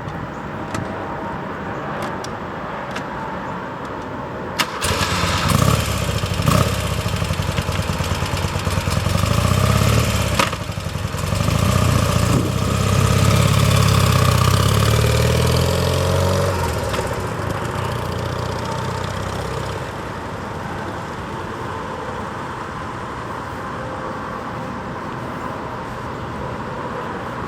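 1977 BMW R100/7's air-cooled flat-twin (boxer) engine running. It gets louder with a sudden jump about four and a half seconds in, is revved in two swells over the next dozen seconds, and then settles to a steady idle.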